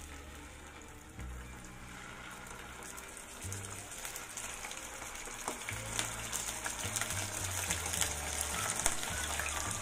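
Whole fish frying in hot oil in a nonstick pan, sizzling with crackles and spits that grow louder as more fish are laid in.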